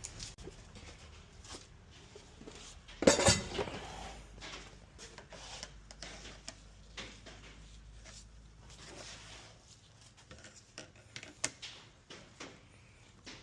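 Metal tools and engine parts clinking and clattering as a dirt bike's clutch is worked apart by hand, with a louder burst of metallic clatter about three seconds in and scattered lighter clicks after.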